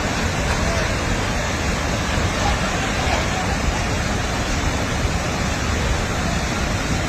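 Steady rushing noise of fast-flowing floodwater, even and unbroken throughout.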